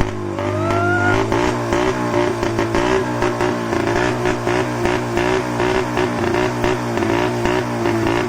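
Vehicle engine running through its exhaust silencer with a steady low note and a fast, regular pulsing. A short rising whine comes about half a second in.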